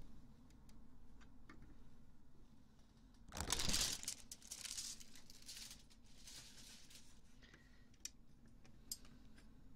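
ASMR ear-cleaning sounds: rustling and scratching close to the microphone, with a loud swish about three and a half seconds in, two softer ones after it, and a couple of small clicks near the end.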